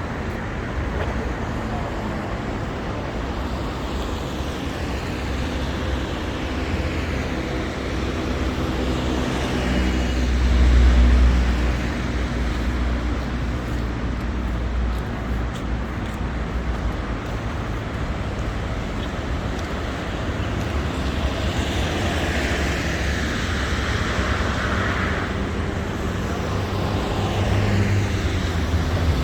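City street traffic going by steadily, with one vehicle passing close and loudest about ten seconds in.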